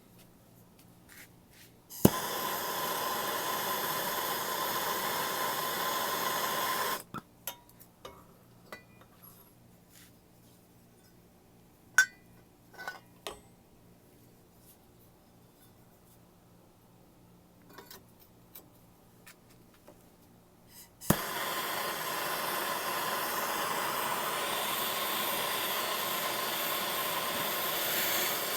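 Handheld propane torch lit with a sharp pop, hissing steadily for about five seconds, then shut off. Scattered clicks and light knocks follow, then the torch is lit again with a pop about 21 seconds in and hisses on. It is heating a soldered copper joint to free the boiler's pressure-reducing valve.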